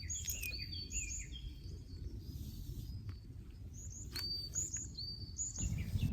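A songbird singing short, high chirping phrases, repeated again and again, over a low steady rumble.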